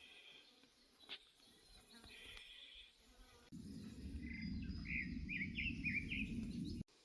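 Outdoor birdsong: short chirping, gliding bird calls, with faint buzzing insect-like trills in the first few seconds. About halfway through, a low rumbling noise comes in under the louder bird calls and cuts off suddenly near the end.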